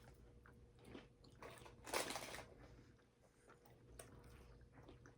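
Faint chewing and crunching of a crispy caramel pretzel snack bar, with small mouth clicks and one brief louder crunch about two seconds in.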